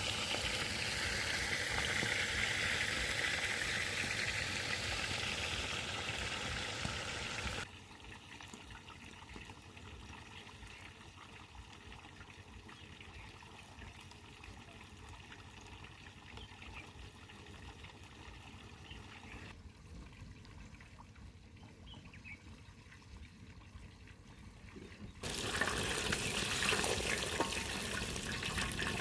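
Water trickling and splashing. It comes in three stretches separated by abrupt cuts: louder for the first seven or so seconds, much quieter through the middle, and louder again for the last few seconds.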